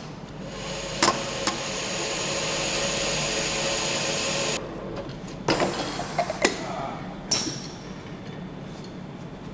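Engine assembly work with tools: a steady hiss lasting about four seconds that cuts off suddenly, with a couple of sharp clicks, followed by a run of metallic knocks and clanks and one last sharp knock.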